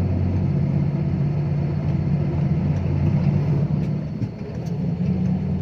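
Six-wheel dump truck's diesel engine idling steadily while the truck stands parked.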